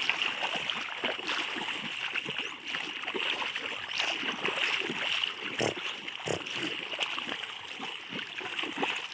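River water splashing and sloshing irregularly as a fishing net is worked by hand, with two louder splashes a little past the middle, over a steady high hiss.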